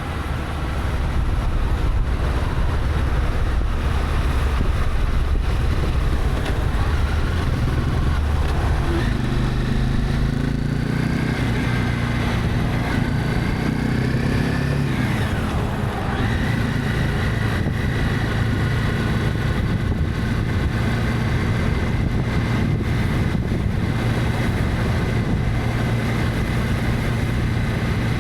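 Honda CB300F single-cylinder motorcycle engine running under way, with wind and road noise. About halfway through, its pitch climbs, then drops sharply at a gear change and settles steady.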